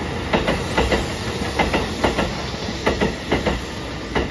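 Sanyo Electric Railway electric train passing through a station at speed: its wheels clack over the rail joints in quick pairs, over a steady rumble and hiss. The last clack comes near the end as the final car goes by.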